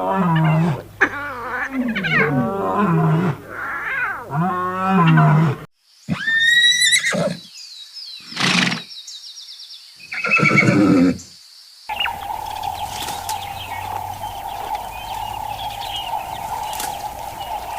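A run of different animal calls cut together. First come repeated pitched calls, then a few separate louder calls. From about twelve seconds in, a steady droning tone takes over.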